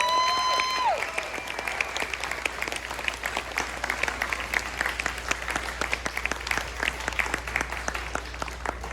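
Audience applauding, with a high drawn-out whoop of a cheer in the first second; the clapping eases off toward the end.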